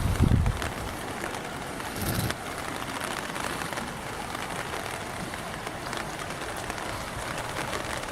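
Steady rain falling on the street and hard surfaces, an even hiss, with brief low rumbles at the start and about two seconds in.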